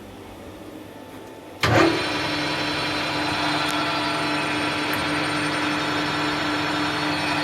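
Harrison M300 gap-bed lathe starting up about a second and a half in, with a brief loud jolt as the spindle engages. Its 2.2 kW motor and geared headstock then run at a steady speed, a steady hum with several whining tones over it.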